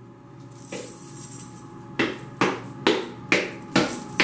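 A rising hiss, then from about two seconds in a run of sharp, evenly spaced thuds, a little over two a second, each with a short ring after it.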